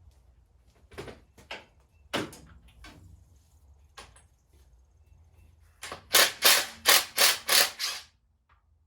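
Sharp metallic clicks and knocks of hand tools working on an engine, ending in a quick run of six loud strikes about three a second.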